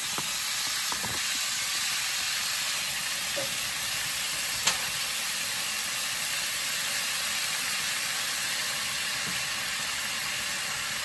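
Chicken strips frying in a nonstick pan, a steady sizzle with one sharp click near the middle.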